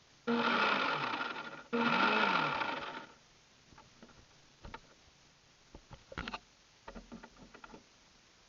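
An RC boat's small electric motor whirring in two short bursts, one straight after the other, each starting abruptly and dying away. It is followed by a few faint clicks and knocks.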